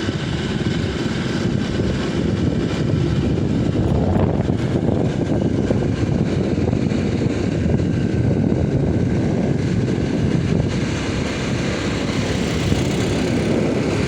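Motorcycle engine running steadily at cruising speed, mixed with heavy wind rush on the microphone.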